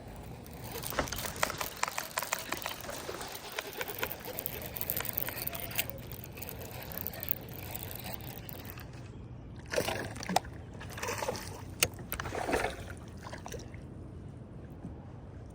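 Water splashing and sloshing around a kayak, with a run of crackling clicks in the first few seconds and several short, sharper splashes around ten to thirteen seconds in.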